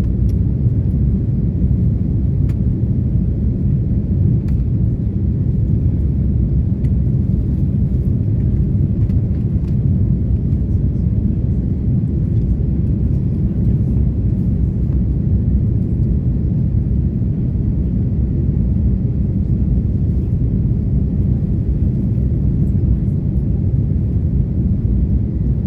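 Steady low rumble of an Airbus A330 airliner in its climb after takeoff: engine noise and airflow as heard from the passenger cabin.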